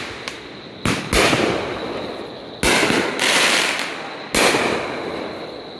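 Aerial firework shells bursting: about five sharp bangs, two in quick succession about a second in, two more near the middle and one later, each trailing off slowly as it echoes away.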